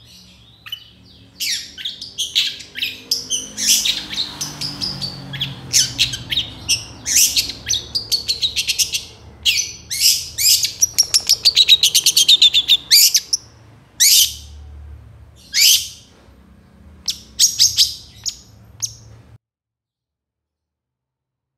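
Long-tailed shrike singing a fast, varied song of sharp chattering notes and rapid trills, full of mimicked fill-ins. The song thins to a few separate calls and then cuts off to silence near the end.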